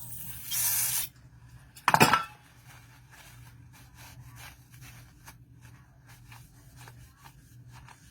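Short hiss of an aerosol engine degreaser sprayed onto a knife blade to strip finger oils before etching, followed about two seconds in by a loud clatter. Faint clicks and rubbing follow.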